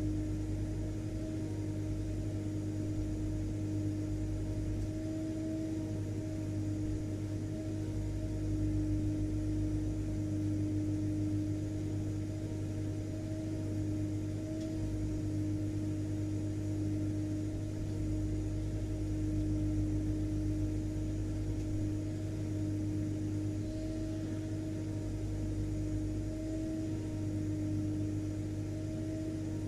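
Vacuum cleaner (hoover) motor running steadily, a constant drone with a clear hum and low rumble that does not change.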